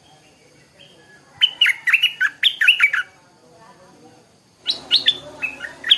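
Stripe-throated bulbul singing: two loud phrases of quick, clear notes, most of them falling in pitch. The first phrase runs for about a second and a half. The second starts near the end.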